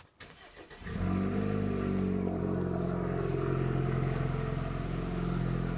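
BMW N20 turbocharged four-cylinder engine starting about a second in, then settling into a steady idle. This is the first start after the oil filter housing gasket replacement and the cooling system refill, a check that everything runs.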